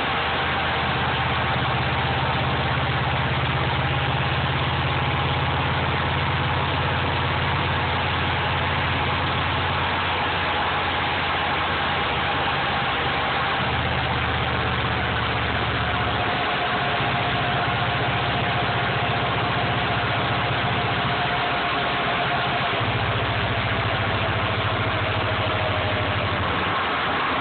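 Subaru EJ22 flat-four engine idling steadily, with a faint whine that slowly falls in pitch.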